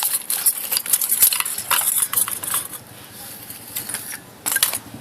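Small metal parts clinking and rattling against each other as they are handled, in quick irregular clusters for about three seconds, then once more briefly near the end.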